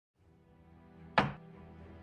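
Background music, broken off for a moment at the start, with a single sharp click about a second in: the move sound of a xiangqi piece being placed in a Chinese chess replay.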